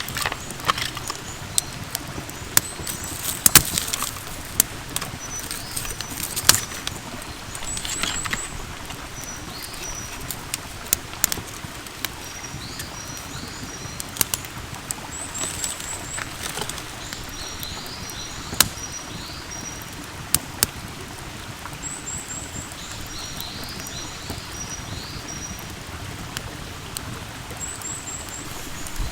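Wild birds singing outdoors, a short high chirping phrase repeating every few seconds. Under them runs a steady hiss with scattered sharp crackles and pops, as from a wood campfire.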